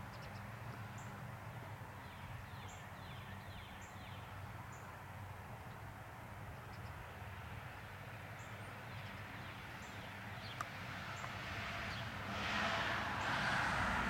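Outdoor ambience of small birds chirping at intervals, short high chips with a few quick falling notes, over a steady low hum. A rising rush of noise swells in over the last couple of seconds.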